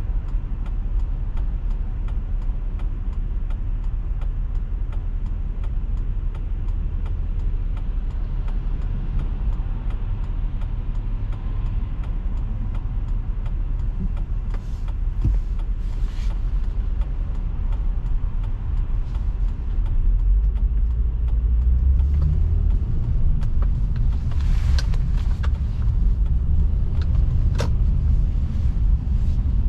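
A car driving on the road: a steady low rumble of tyres and engine that grows louder about twenty seconds in, with a few brief clicks near the end.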